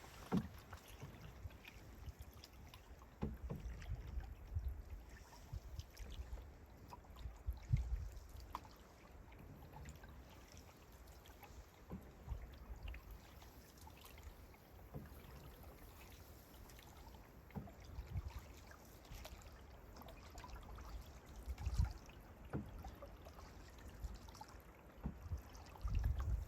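Canoe being paddled: quiet paddle strokes and water sounds, with irregular dull low thumps every few seconds.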